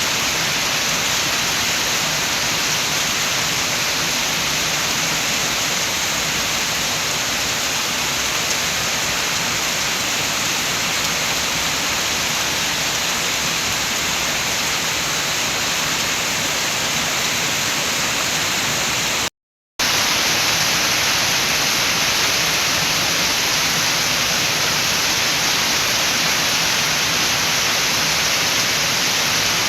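Rain falling steadily, an even dense hiss with no single drops standing out. About two-thirds through it cuts out completely for half a second, then resumes as before.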